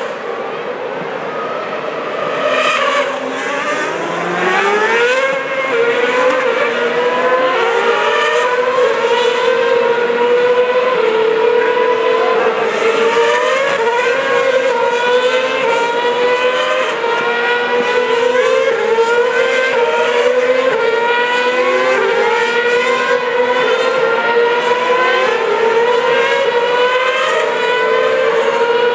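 Formula One cars accelerating, several at once. Their engines rise in pitch and drop back again and again as they shift up through the gears. The sound swells from about five seconds in.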